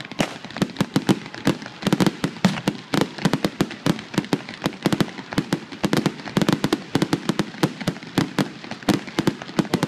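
Fireworks going off in a rapid, unbroken barrage of sharp bangs and crackles, several a second.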